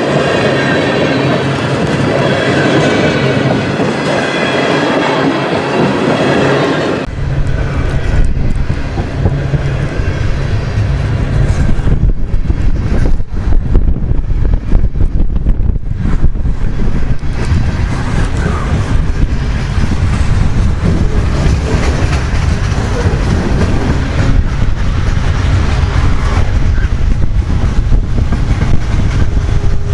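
Freight cars of a long manifest train rolling past, wheels clacking over the rail joints with a faint squeal at first. About seven seconds in, the sound changes abruptly to a deeper, heavier rumble.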